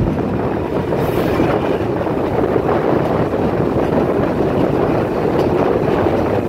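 Drutojan Express passenger train running at speed, heard from an open coach window: a steady noise of wheels on the rails mixed with air rushing past.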